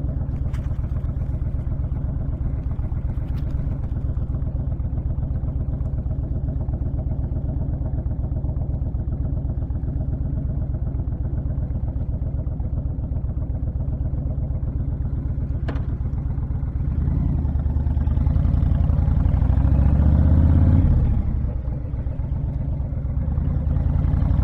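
Honda VTX1300 V-twin cruiser engine running steadily at road speed, then pulling harder and louder for the last several seconds, with a short dip in revs near the end before it climbs again.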